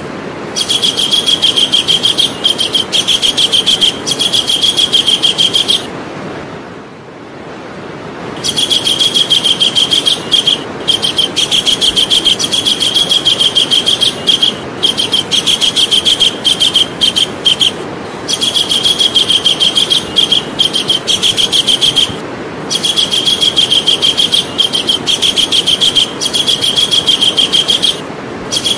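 Javan kingfisher calling: long runs of fast, evenly repeated high, shrill notes, each run lasting several seconds with short breaks between and a longer pause about six seconds in, over a steady hiss.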